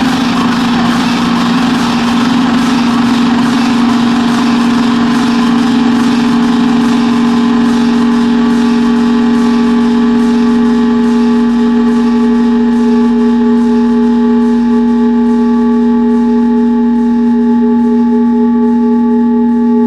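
Eurorack modular synthesizer noise drone: a loud, steady low tone with higher overtones held under a wash of hiss, with faint regular ticking running through it.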